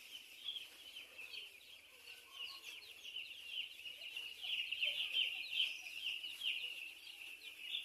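A flock of chickens calling together: a dense chorus of many short, high, overlapping peeps, growing louder about halfway through.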